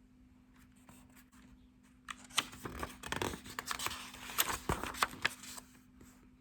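Rustling and clicking of a book being handled as a page is turned, in a dense run of short crackly noises with a few sharp clicks.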